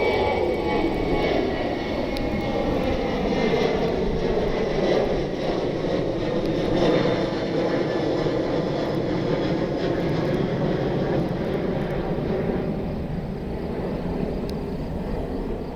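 Jet airliner engines at high power, a loud steady rumble that eases slightly near the end, as a departing airliner passes.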